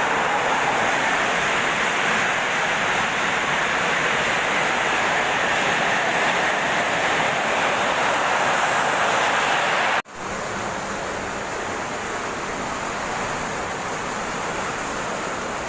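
Heavy rain pouring down in a steady hiss. It cuts out for an instant about ten seconds in and comes back a little quieter.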